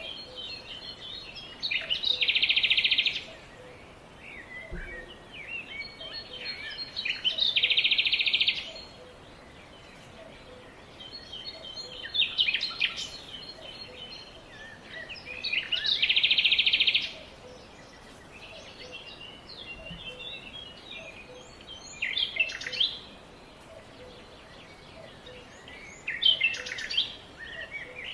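Songbirds singing. A dense, rapid trill phrase recurs several times, about a second and a half each, between shorter chirps and warbled phrases.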